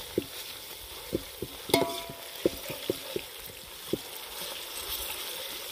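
Sliced onions sizzling in a large aluminium pot while being stirred with a perforated metal skimmer, which knocks against the pot about seven times. One knock, a little under two seconds in, sets the pot ringing briefly.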